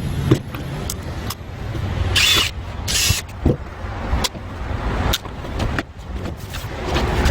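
A motor-driven tool running with a low rumble, cut through by irregular knocks and clicks and two short hissing bursts a few seconds in.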